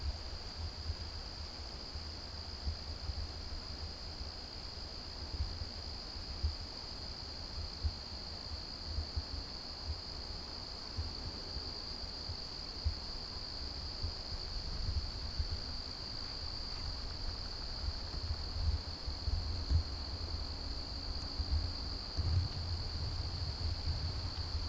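A steady, high-pitched insect chorus trilling without a break, over an uneven low rumble of wind gusting on the microphone.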